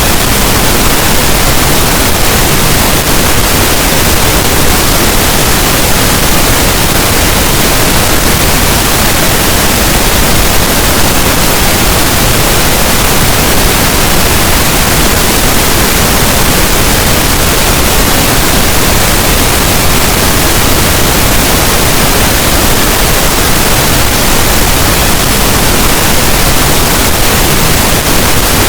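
Loud, steady pink noise: an even, unchanging hiss across the whole range, with no rhythm or breaks.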